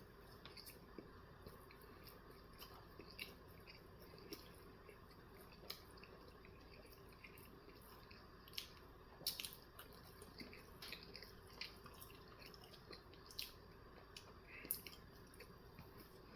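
Faint chewing of a bagel sandwich: scattered wet mouth clicks and smacks at irregular intervals, a few slightly louder ones near the middle and near the end.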